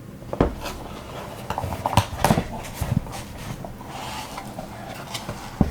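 A gel set being unpacked by hand: a few sharp knocks and clicks of small containers and packaging, about half a second, two to three seconds and near the end, with light rustling between.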